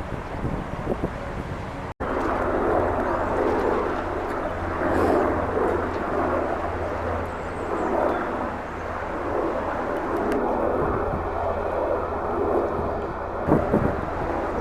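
Outdoor wind noise rushing over the microphone, over a steady low hum like a distant engine. The sound cuts out for an instant about two seconds in.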